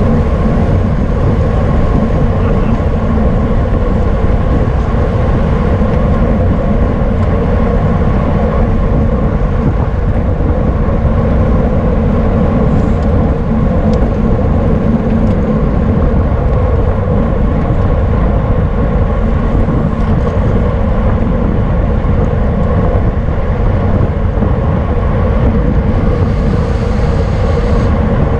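Steady rush of wind over an on-bike camera's microphone while riding at race speed, with a low rumble of tyres on the road underneath.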